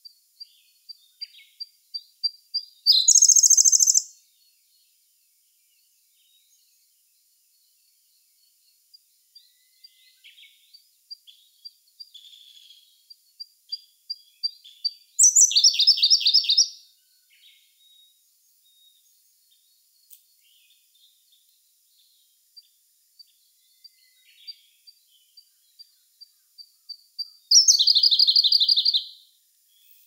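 Siberian blue robin singing: three songs. Each is a run of thin, high notes that quicken and grow louder, ending in a loud, rapid trill about a second and a half long.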